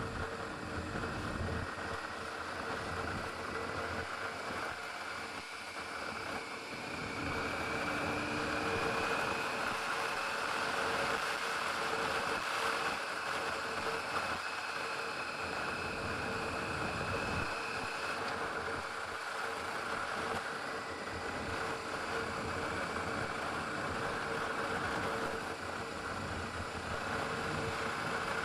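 Adventure motorcycle engine running steadily under way, with wind rushing over the microphone.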